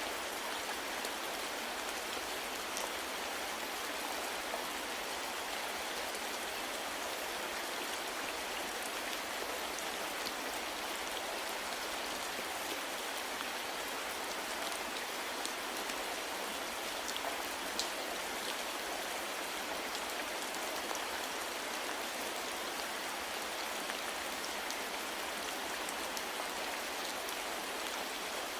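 Steady soft rain falling, an even hiss with faint individual drop ticks scattered through it.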